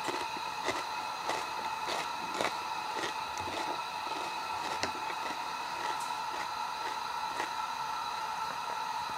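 A person chewing crunchy salad, cucumber and steak, in irregular crunchy bites about once or twice a second, over a steady faint high whine in the background.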